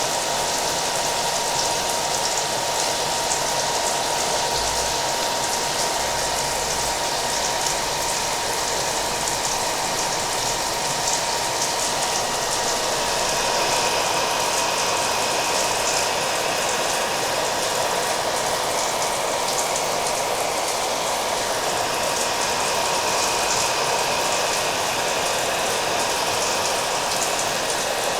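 Hair dryer running steadily with a constant whine, mixed with the steady hiss and patter of rain.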